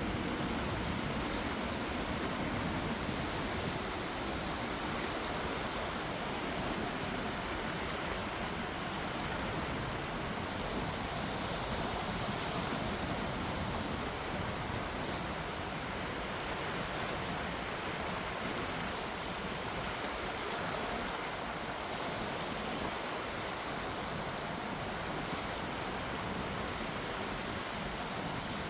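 Calm sea with gentle waves washing, a steady hiss of water.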